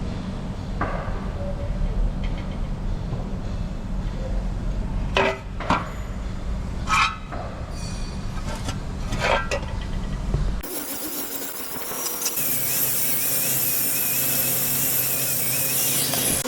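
Auto body shop tool noise: a steady low hum with several sharp knocks on the panel, then, about ten seconds in, a switch to a steady high-pitched hiss from a power tool.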